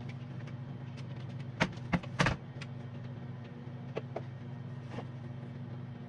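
Microwave oven running with a steady low electrical hum while it heats the cocoa. Three sharp knocks come between one and a half and two and a half seconds in, the last the loudest, followed by a few faint ticks.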